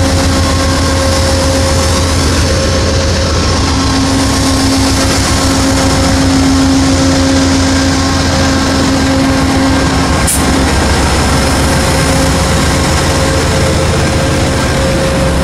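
Amtrak P42 diesel locomotive engine running steadily at a standstill: a loud, even hum with steady held tones. A brief sharp click about ten seconds in.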